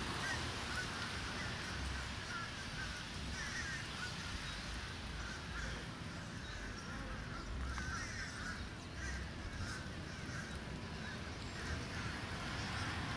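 Birds calling repeatedly in short chirps, over a low steady rumble.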